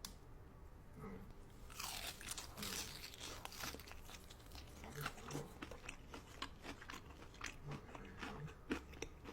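A person biting and chewing crunchy food, a dense run of crisp crunches and crackles starting about two seconds in.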